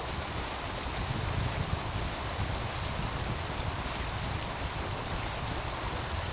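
Steady rush of a flowing meltwater stream, with a wood fire giving a few sharp crackles over it and a low rumble underneath.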